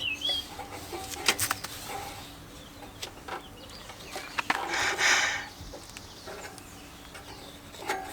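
Bird calls that sound like clucking, with a few sharp clicks and knocks between them.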